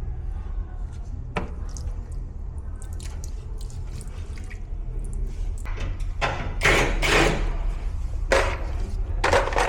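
Water splashing and dripping over a steady low hum, with louder rushing bursts in the second half.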